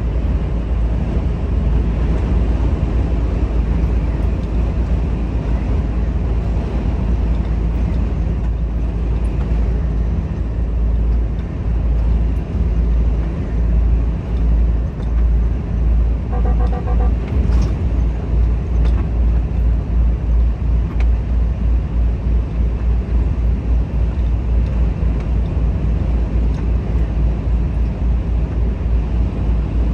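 Volvo FH 460 truck on the road: a steady low engine and road rumble that takes on a regular pulsing in the second half. A short run of quick electronic beeps sounds about halfway through.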